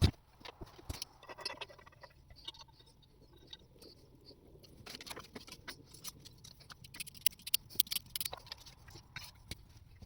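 Wood fire burning in a small welded steel stove, with scattered sharp crackles and ticks over a faint low rumble. A single loud knock comes right at the start.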